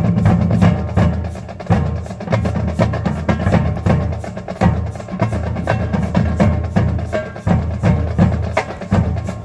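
High school marching band playing a percussion-heavy passage: rapid, sharp drum and wood-block-like hits over sustained low chords that break off and come back every second or two.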